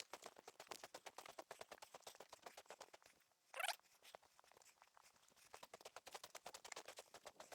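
Faint, rapid crackling and ticking of ice, with a short, louder swish about three and a half seconds in.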